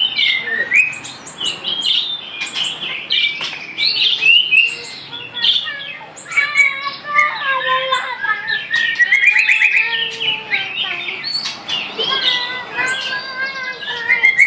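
A songbird, the murai hantu laut of the title, singing a varied run of quick whistles and chirps, with a fast rising trill about two-thirds of the way through.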